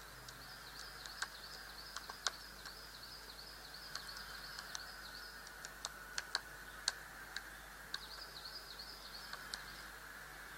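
Faint, continuous high chirping of birds over a steady hiss, broken by irregularly spaced sharp ticks.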